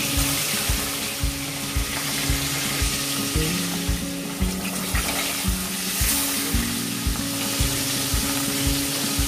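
Chicken pieces frying in hot refined oil in a wok: a steady, crackling sizzle. A low, regular beat of background music runs underneath.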